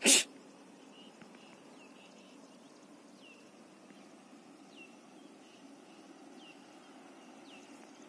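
A bird calling outdoors with short high notes that slide downward, repeated every second or so over a faint steady background hum. A single loud sharp knock comes right at the start, louder than anything else.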